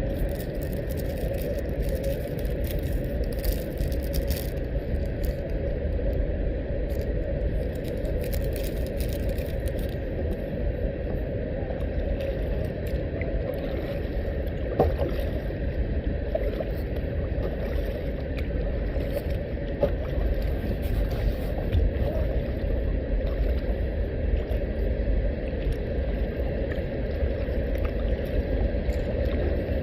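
Steady low rumble and water noise from a kayak on the move, with one sharp knock about halfway through.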